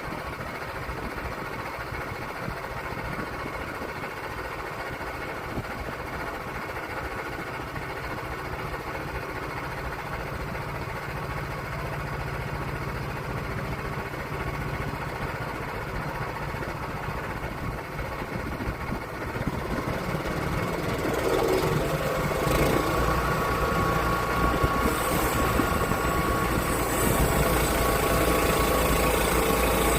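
Sawmill engine running steadily, growing louder about two-thirds of the way through.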